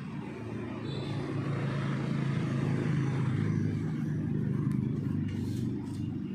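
A motor or engine humming at a low pitch, building over the first few seconds and easing off near the end.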